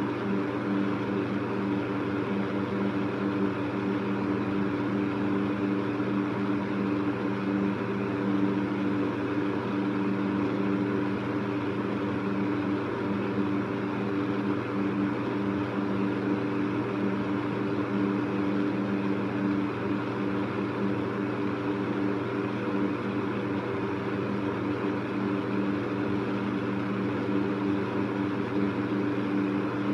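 Electric fan running steadily: an even rush of moving air over a steady hum of a few pitched tones.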